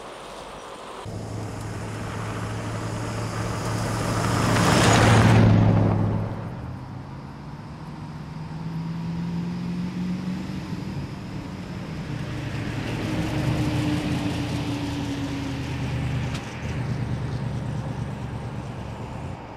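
Classic convertible's engine running as the car is driven along the road. It swells to its loudest as the car passes close about five seconds in, then runs on with its pitch climbing as it accelerates.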